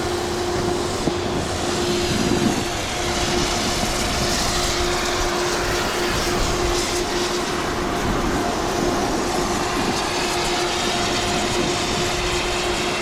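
Wind rushing over the microphone and snowboards scraping across hard-packed, icy snow during a run, with a steady hum underneath.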